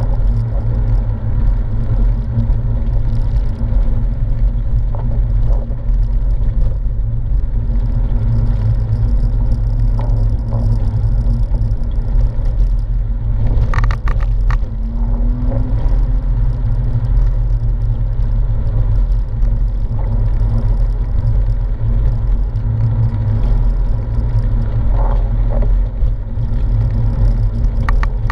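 Porsche 997's flat-six engine running steadily while driving, heard from inside the cabin over a low rumble of road and tyre noise, its pitch rising briefly a couple of times. A few sharp clicks sound about halfway through.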